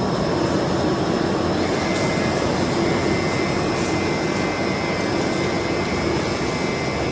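Tyre-factory machinery running with a steady, even mechanical drone, with a few faint high steady tones over it.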